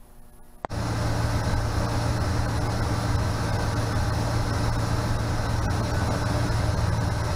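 A 1969 Pontiac Firebird's V8 engine running steadily on a newly installed Pertronix electronic ignition. It comes in abruptly under a second in, after a quiet start.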